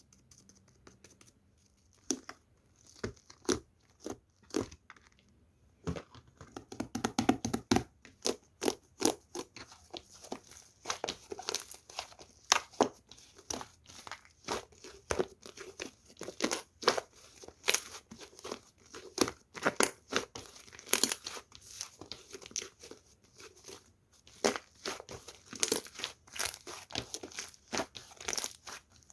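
Hands squishing and poking a soft, puffy slime, making irregular sticky clicks and little pops, some close together and some spaced out.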